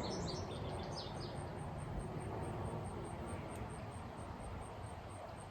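A songbird singing a quick run of repeated chirps for the first second and a half, then fading out, over steady low outdoor background noise.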